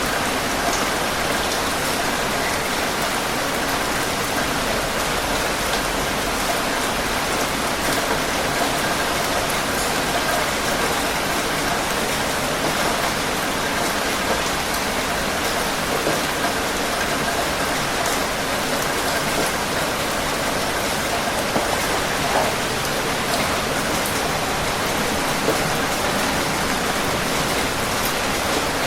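Steady rain falling on a surface, an even hiss with the scattered patter of individual drops.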